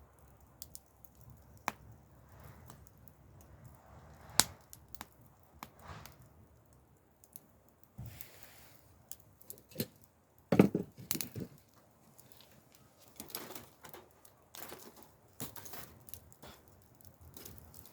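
Wood burning in a campfire, crackling and popping with irregular sharp cracks, and a louder cluster of cracks and knocks about ten and a half seconds in.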